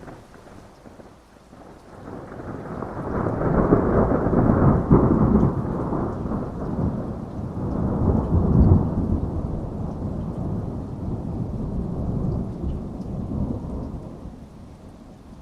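A long roll of thunder over steady rain. The rumble builds about two seconds in, swells twice, and dies away near the end.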